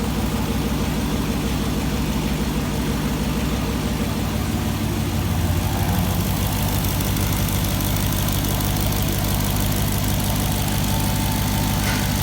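Swapped-in 2018 Dodge Charger Hellcat's supercharged 6.2-litre Hemi V8 idling steadily on its first runs after the swap, its idle note shifting slightly about five seconds in.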